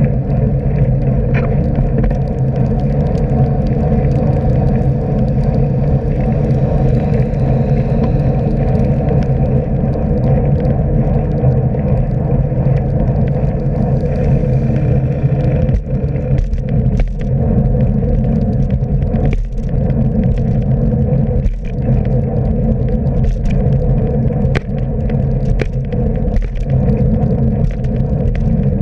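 Steady loud rumble of wind and road noise on a riding cyclist's camera, with scattered sharp clicks and knocks in the second half.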